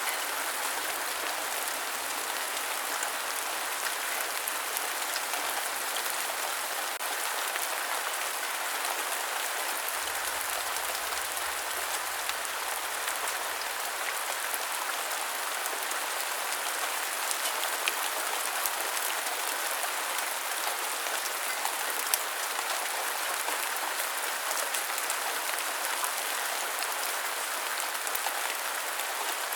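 Steady rain falling: an even hiss with a fine patter of drops that does not change.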